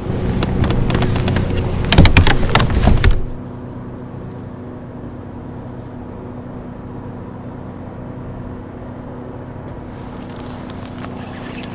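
Water splashing loudly, with sharp crackles, for about three seconds just after a bass is let go beside a kayak. It stops abruptly, leaving a steady low motor hum.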